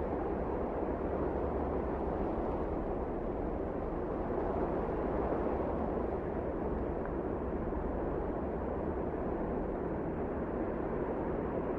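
Steady wind blowing, a low, dense rushing noise without distinct gusts or breaks.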